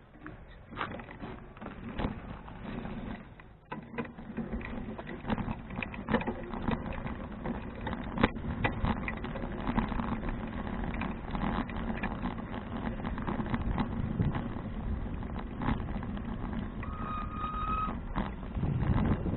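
2012 Fuji touring bicycle ridden over a rough surface: a steady rumble of tyre and ride noise with frequent rattles and knocks, getting louder near the end. A brief high squeal sounds near the end.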